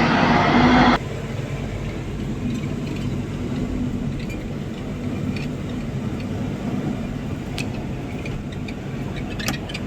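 Diesel engine of heavy earth-moving machinery running steadily. A louder, harsher noise in the first second cuts off suddenly, leaving the steady engine hum with a few faint clicks.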